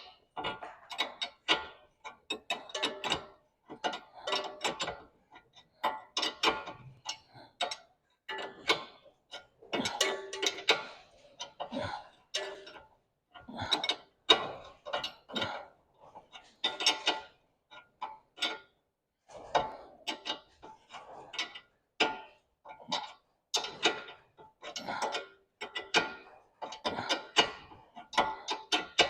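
A 10 mm ratchet wrench working a bolt on car suspension: rapid ratcheting clicks in short irregular bursts with a light metallic ring, stopping and starting as the wrench is swung back and forth.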